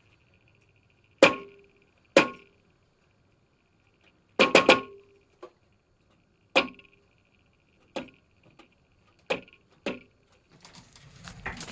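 Computer case fan clicking: about eight loud, sharp clicks with a short ringing tail at uneven spacing, a quick cluster of three about halfway through, over a faint steady high whine. The clicking is the fan's fault, which shows when it spins up.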